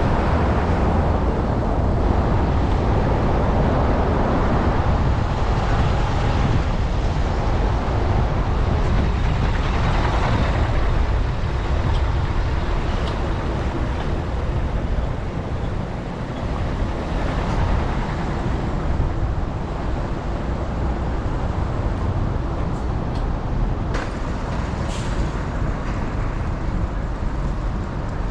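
Steady rush of road traffic and wind on the camera microphone during a bike ride, with a few short ticks and a brief hiss about three-quarters of the way through.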